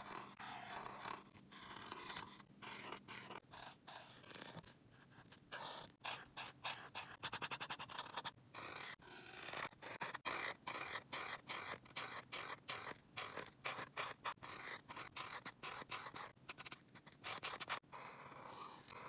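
A drawing tool scratching on paper in quick, repeated short strokes, with a fast flurry of strokes about seven to eight seconds in.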